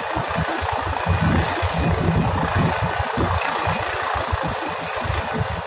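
Helicopter rotor and turbine engine running steadily close by, a dense noisy roar over an uneven low rumble.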